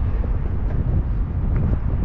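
Wind buffeting the microphone: a steady, loud, low noise with no tone in it.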